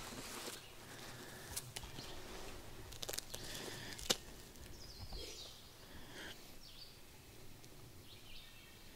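Faint woodland outdoor sound: rustling with a few sharp clicks in the first half, one louder click about four seconds in, then small songbirds chirping briefly, about five seconds in and again near the end.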